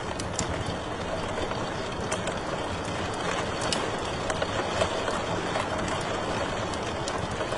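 Wood fire crackling in a fireplace: a steady low rushing of flame with scattered sharp pops and snaps at irregular moments.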